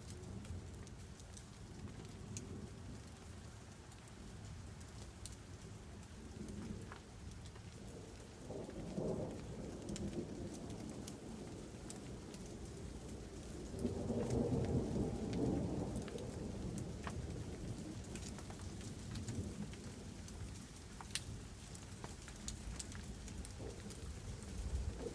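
Thunder rumbling over steady rain, with a shorter roll about nine seconds in and a louder one about fourteen seconds in that lasts a couple of seconds. Scattered raindrops tick throughout.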